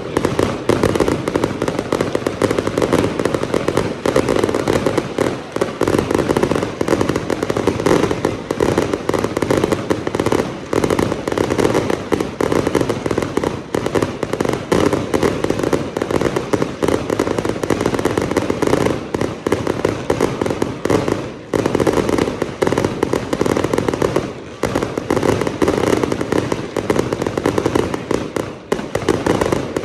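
Fireworks going off in a dense, continuous barrage of rapid crackling pops, with only brief lulls.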